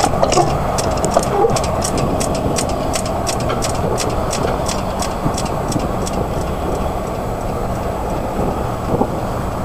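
Freight train rolling away along the track: a steady low rumble with a rapid ticking of wheels over the rail, about three clicks a second, fading out over the first half.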